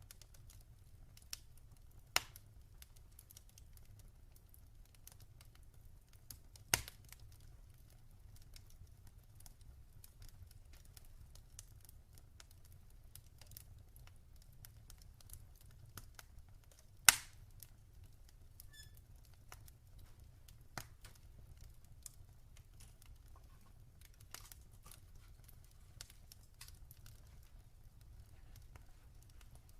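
Wood fire crackling in a fireplace: a steady scatter of faint crackles with a few sharp pops, the loudest about seventeen seconds in, over a low steady hum.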